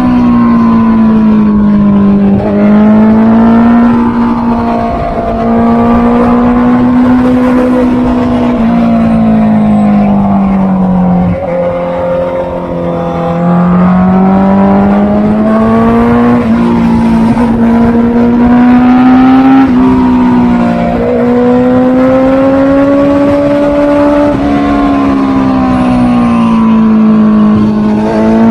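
Honda CB650R's inline-four engine running, its pitch climbing and falling over several seconds at a time, with a few sudden drops in pitch.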